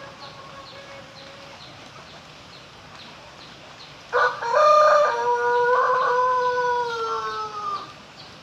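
Pelung rooster crowing: one long, melodious crow starting about four seconds in, held for nearly four seconds and sliding slowly down in pitch as it fades. Faint regular chirping sounds before it.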